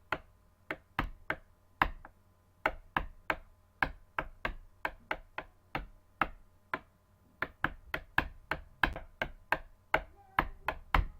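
Rapid, sharp taps of a knife point on a hard tabletop, about three a second and not quite even: the knife game, where the blade is stabbed in turn between spread fingers.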